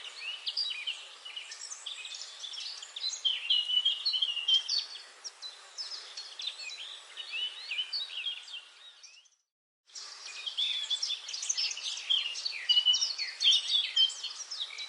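A dense chorus of many songbirds chirping and trilling over one another. About nine seconds in, the sound fades out to a brief moment of silence and then cuts straight back in, as at a splice in the recording.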